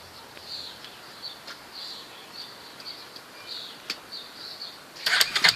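Small birds chirping in the background; about five seconds in, the Yamaha Warrior 350 ATV's single-cylinder four-stroke engine is cranked over and tries to fire but does not yet catch, a sign of a hard start after a new pulser coil was fitted.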